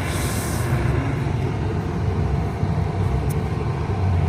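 Steady low rumble of vehicle noise, with a brief hiss in the first half-second and a faint click a little past three seconds in.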